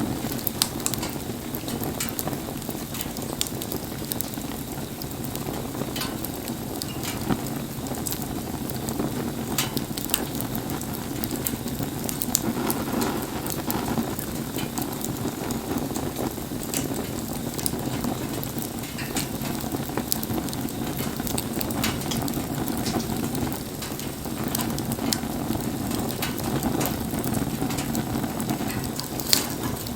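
Wood bonfire crackling, with frequent sharp pops over a steady sizzling hiss, burning in the rain.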